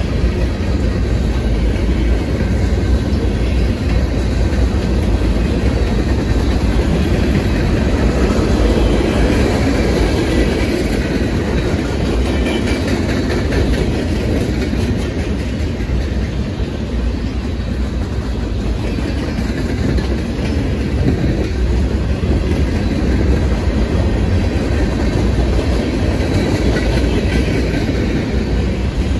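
Freight cars of a Union Pacific manifest train rolling past close by: a steady, loud noise of steel wheels running on the rails.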